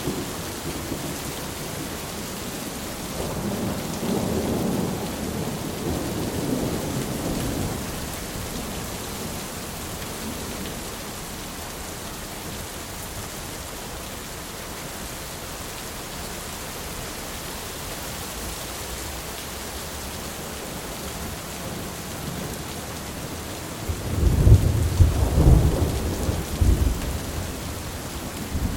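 Steady rain falling during a thunderstorm, with distant thunder rumbling a few seconds in and a louder roll of thunder near the end.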